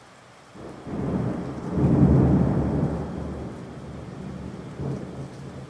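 A thunderclap rumbling in about half a second in, loudest around two seconds, then trailing off in a long low rumble.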